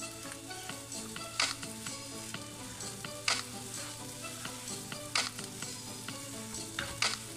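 Fried rice sizzling in a hot wok as a spatula stirs and tosses it, with a steady frying hiss and the spatula scraping through the rice.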